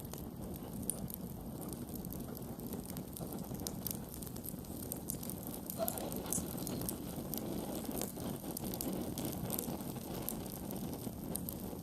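Wood campfire burning: a steady low rush of flames with frequent sharp crackles and pops from the burning wood.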